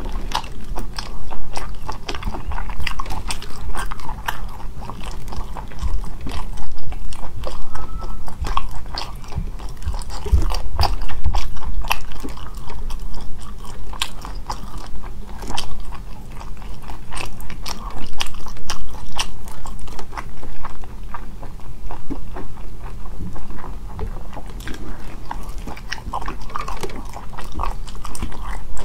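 Close-up eating of sea snails: chewing and wet mouth smacks, with many short, sharp clicks as the shells are handled and the meat is pulled out.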